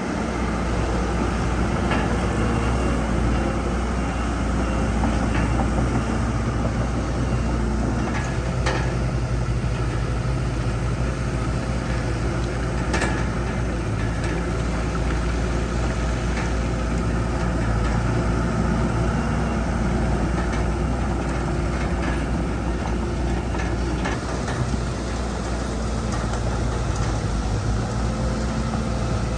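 Diesel engine of heavy earthmoving equipment running steadily, with a few faint clicks or knocks.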